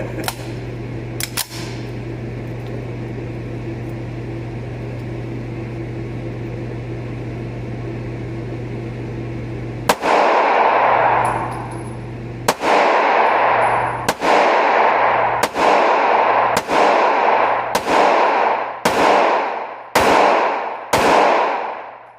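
CZ pistol fired nine times in slow, steady succession at an indoor range, each shot echoing off the room. For the first ten seconds there is only a steady hum before the first shot.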